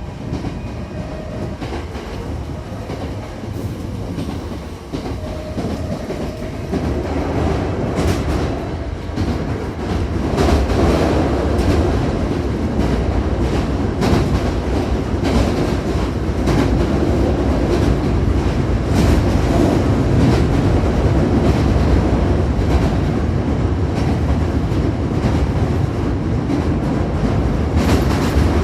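Hankyu 7000-series commuter train heard from inside the car while running between stations: a steady rumble of wheels on the track that grows louder about ten seconds in, with scattered clicks as the wheels pass over rail joints.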